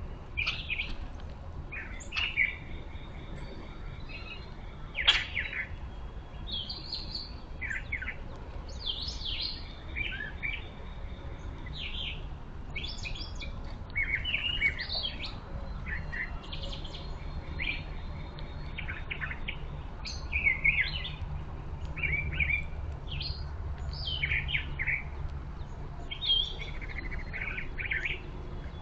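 Backyard birds chirping and calling in short, overlapping notes, with a single sharp click about five seconds in, over a low steady rumble.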